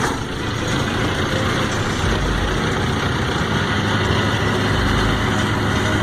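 A heavy vehicle engine running steadily with a low hum.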